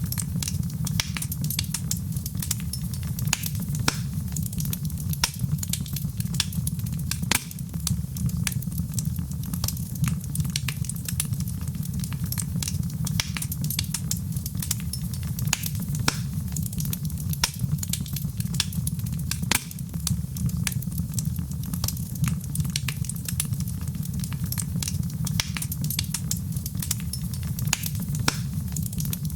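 Wood fire crackling in a fireplace: many sharp, irregular pops and snaps over a steady low rumble of the burning fire.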